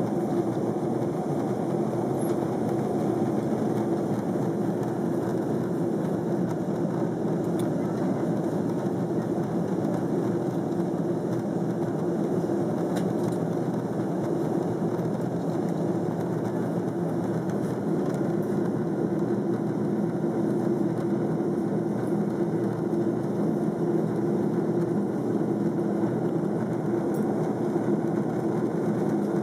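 Steady drone inside a jet airliner's passenger cabin in flight: engine and airflow noise with a low hum running through it.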